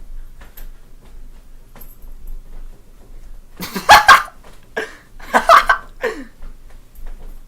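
Two loud vocal outbursts, one about three and a half seconds in and a longer broken one about a second later, over faint clicking.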